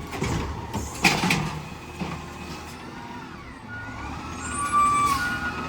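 Garbage truck running, with a sharp bang about a second in, and steady tones from about four seconds in.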